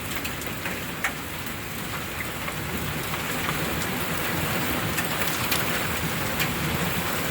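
Heavy rain pouring steadily in a summer hailstorm, with scattered sharp taps of drops and hailstones striking surfaces. It grows slightly louder about halfway through.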